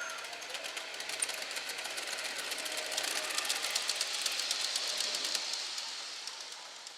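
Gauge 1 model train running past on outdoor track, its wheels clicking rapidly over the rail joints. It grows louder to a peak about two-thirds of the way through, then fades as it moves away.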